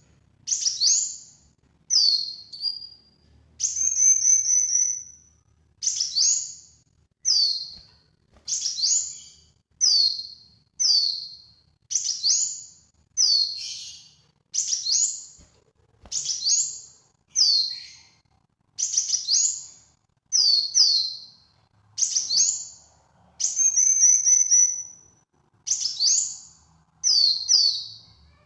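A kowul songbird repeating its sharp, high 'nyecret' call, a quick downslurred note about once a second, with a rapid buzzy trill twice.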